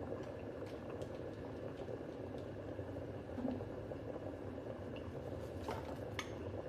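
Small stainless-steel electric travel kettle heating water: a steady rushing noise of water coming to the boil, with a few faint clicks near the end.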